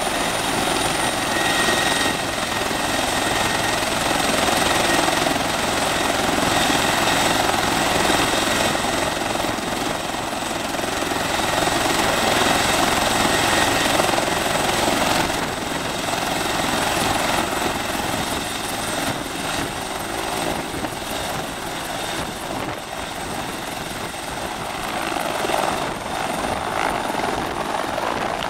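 Bell 412 twin-turbine helicopter running on the pad with its rotor turning, a steady high turbine whine over the rotor and engine noise, ready for take-off. The whine rises slightly near the end as power comes up for lift-off.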